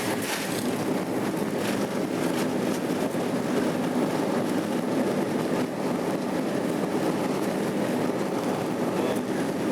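Steady airliner cabin noise: the jet's engines and the rush of air, heard from inside the passenger cabin as a constant low hum.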